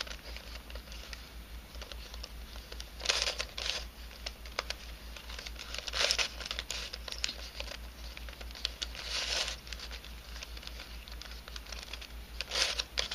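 Twists of a 3D-printed nylon helicopter cube puzzle: its rough-surfaced pieces scrape and click against each other in short bursts every few seconds, with scattered small clicks in between.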